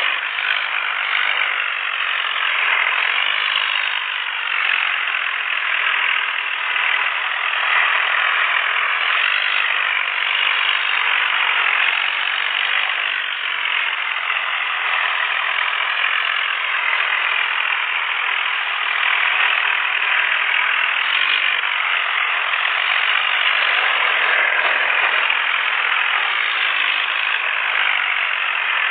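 Tractor diesel engines running hard and steadily under load in a tractor tug-of-war. There are no breaks, and the sound is thin in the bass.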